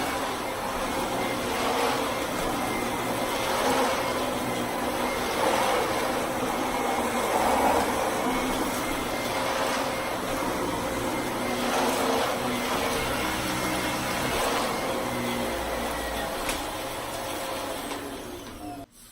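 Vacuum cleaner running steadily, a motor hum with a rush of air, swelling a little in the middle; it cuts off suddenly near the end.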